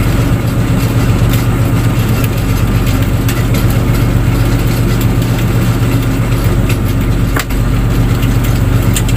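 Fishing boat's engine running at a steady, unchanging pitch, with a few light ticks over it.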